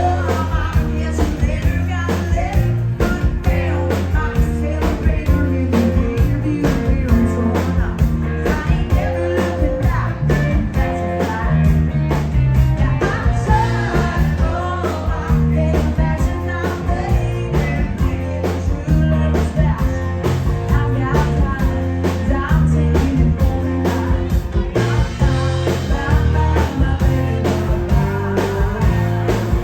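Band playing an upbeat rock-and-roll number, with steady drums, bass and guitar and a singer's voice over them.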